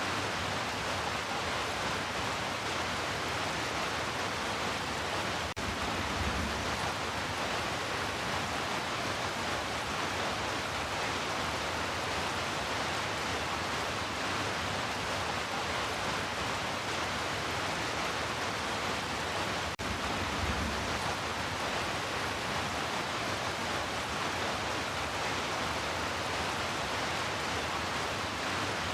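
Heavy rain falling in a steady, dense hiss. A brief low rumble comes twice, about six and twenty seconds in.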